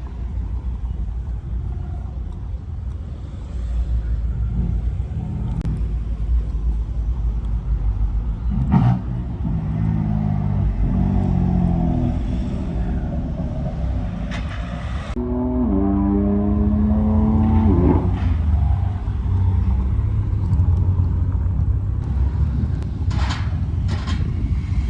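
Car engines rumbling through loud exhausts, with an engine revving about nine seconds in and again about fifteen seconds in, and a few short sharp cracks.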